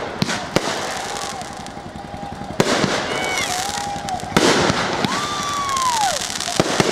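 Aerial fireworks display: several sharp shell bursts over continuous crackling. A few whistles are heard, the longest a clear tone falling in pitch over about a second near the end.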